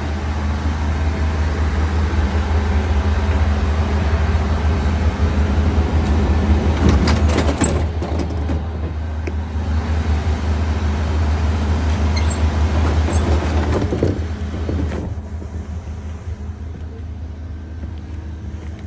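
Loud steady low rumble and rattle of a KTM sleeper train heard in the steel gangway between carriages, with metallic clicks and clatter as the connecting door is handled. The noise drops about 15 seconds in, once inside the carriage.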